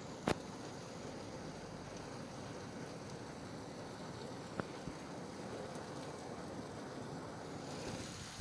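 Steady rain falling, a continuous hiss, with a sharp tap just after the start and a fainter one about halfway through.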